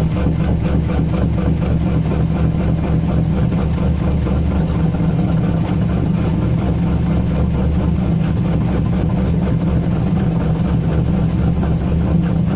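Corvette C5 Z06's LS6 V8 idling after a cold start, with the choppy, lumpy idle of an aftermarket TSP camshaft, exhausting through a Borla Attack exhaust. The idle is steady and rhythmic, with no revs.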